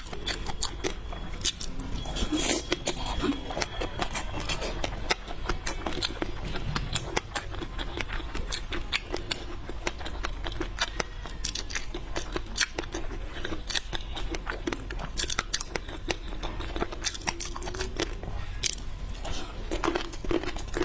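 Close-miked eating sounds of a person chewing and biting seafood: a dense run of small wet clicks and crunches throughout.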